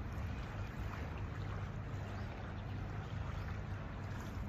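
Steady seaside wind buffeting the microphone as a low rumble, with the sea washing behind it.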